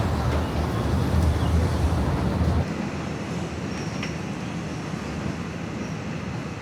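Steady low rumble of a vehicle in motion that cuts off abruptly about two and a half seconds in, leaving a quieter steady background noise.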